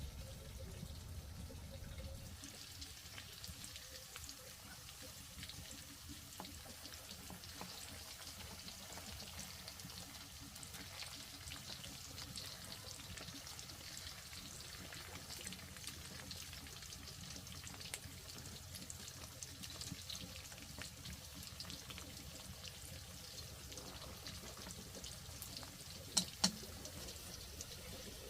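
Water running and trickling steadily, with scattered light clicks and two sharp knocks close together near the end.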